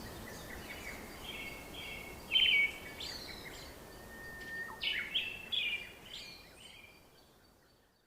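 Birds chirping in short repeated phrases over faint outdoor background noise, the loudest burst a little over two seconds in and another cluster around five to six seconds; the sound fades out near the end.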